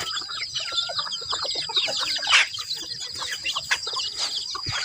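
Free-ranging chickens clucking, with many short calls overlapping in quick succession, among them chicks peeping.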